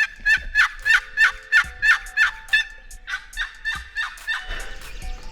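Turkey yelping: a fast series of sharp notes, about four a second, then a second run after a short pause.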